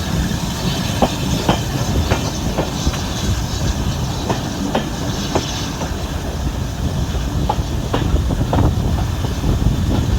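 Railway carriage running along the track behind a steam locomotive: a steady low rumble with repeated sharp clicks from the wheels passing over rail joints.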